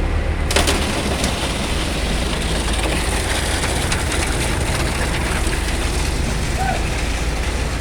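Heavy diesel machinery of a concrete mixer truck and concrete pump running steadily with a deep rumble. A rushing hiss cuts in about half a second in and carries on over it.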